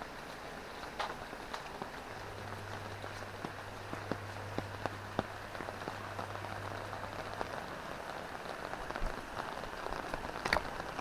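Drizzling rain falling steadily, with many scattered sharp drop ticks close by. A low steady hum comes in about two seconds in and stops a little after halfway.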